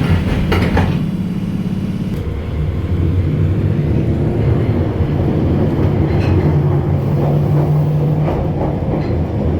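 London Underground 1972 Stock Bakerloo line train running, heard from inside the carriage: a steady loud rumble with a low motor hum whose pitch shifts as it goes, and a few clicks in the first second.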